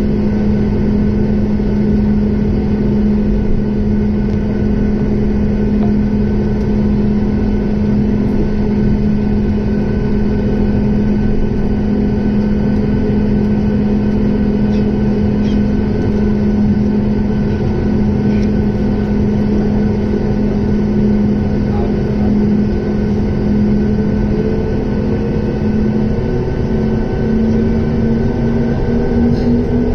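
Boeing 737 jet engines running, a loud, even rumble with a steady hum; near the end the hum rises slightly in pitch as the engines speed up.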